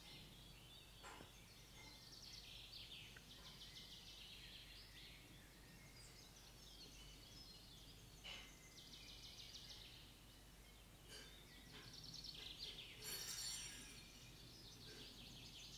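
Faint birdsong over quiet outdoor background: small birds chirping and trilling on and off, with a brighter, higher trill about thirteen seconds in.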